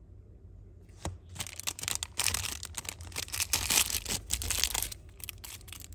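Plastic or paper packaging crinkling and rustling as it is handled. It starts with a sharp tick about a second in and dies down near the end.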